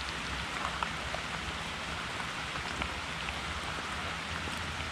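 Steady rain falling, with many scattered individual drops ticking close by.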